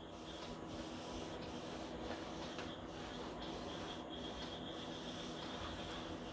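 Sliced onions and spice powders frying faintly in a kadai while a steel spoon keeps stirring and scraping them against the pan.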